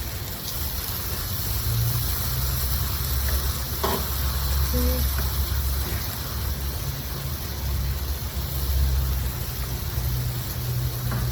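Food sizzling and frying in a pan, over a steady low rumble, with a faint click or two.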